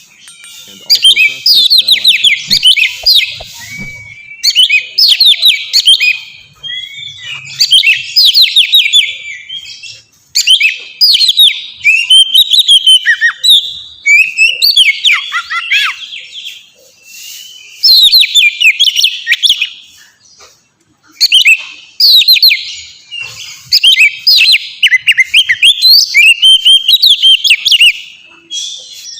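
Oriental magpie-robin (kacer) singing: loud phrases of quick, varied whistled notes and trills, each a second or two long, separated by short pauses.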